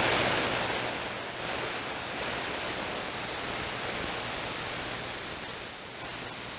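CB radio receiver hissing with open-squelch static between transmissions. The hiss is stronger in the first second, then settles to a steady level.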